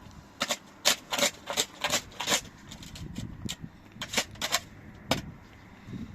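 A series of sharp knocks, about a dozen at irregular intervals, some with a short ring after them.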